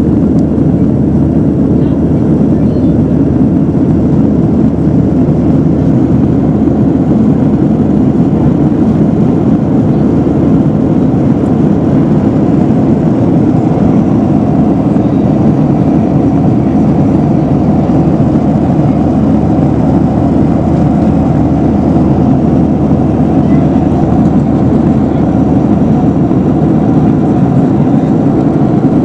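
Steady, loud drone inside an airliner's passenger cabin: jet engine and airflow noise, unchanging throughout.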